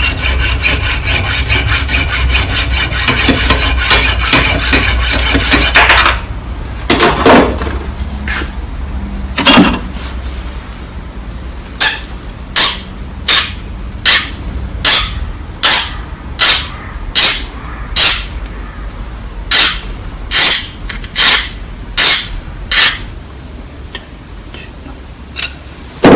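A power tool runs with a steady whine for the first few seconds, then stops. Then come repeated abrasive hand strokes, like filing or sanding, that settle into an even rhythm of about one stroke every 0.7 seconds.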